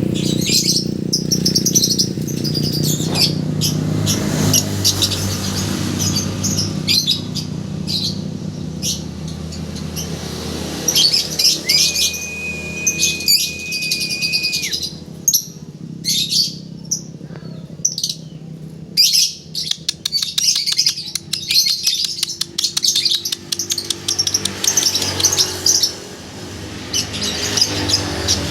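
A colony of lovebirds chirping continuously in rapid, high calls. About halfway through there is also a steady, whistle-like tone lasting about three seconds.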